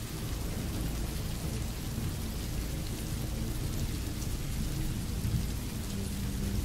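Recorded rain falling steadily, with a low rumble underneath.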